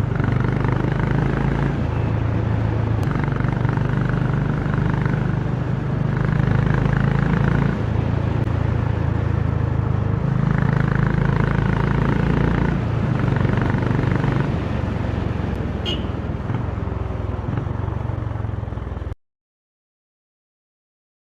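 Honda CB350 motorcycle engine and exhaust running on the move, its low note stepping up and down in pitch several times as the bike speeds up and slows. The sound cuts off abruptly to total silence near the end.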